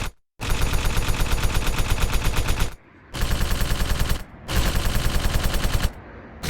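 Rapid, evenly spaced bangs, about nine a second, like machine-gun fire. They come in several stretches broken by sudden cuts to silence.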